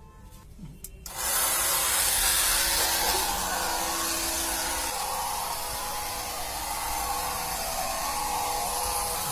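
Small electric motor of a homemade mini boat switching on suddenly about a second in, then running steadily with a loud whirring hiss.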